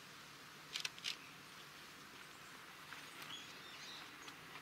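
Small birds chirping faintly over a quiet background hiss: a quick cluster of three sharp chirps about a second in, then fainter, scattered chirping a few seconds later.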